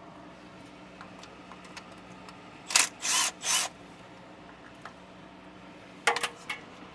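Hand ratchet working a bolt on the clutch slave line where it fastens to the transmission: sharp metal clicks, then two short ratcheting strokes about three seconds in, and a brief clatter of tool clinks near the end.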